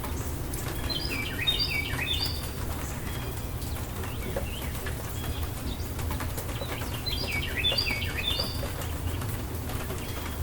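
A songbird sings a short phrase of quick, stepped falling notes twice, about six seconds apart. Behind it is a steady background of rain and a low rumble.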